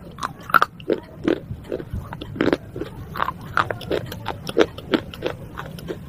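A person chewing broken fired-clay pot shards: an irregular run of sharp crunches, two or three a second.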